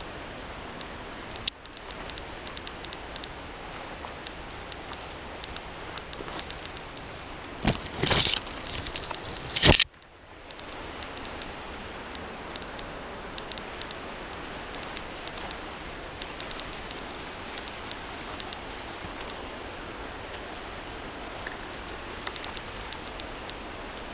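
Steady rush of a mountain river. Near the start there is a sharp click, and about eight to ten seconds in a few loud rustling, scraping knocks.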